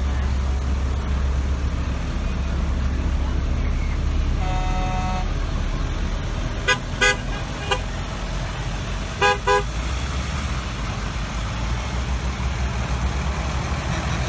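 Trucks' horns honking over the steady low rumble of truck engines: one held note about four and a half seconds in, then three short toots around seven seconds and two more around nine and a half seconds.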